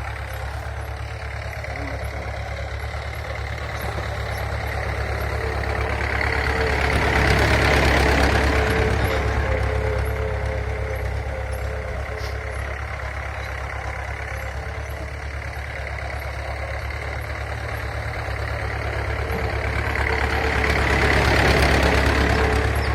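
Tractor engine running steadily as it is driven, swelling louder twice, about a third of the way in and again near the end, then easing off.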